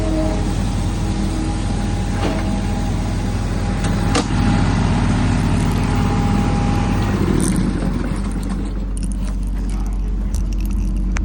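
A 1/8-scale ridable model diesel-outline locomotive running with a steady low engine drone, with a few sharp clicks along the way.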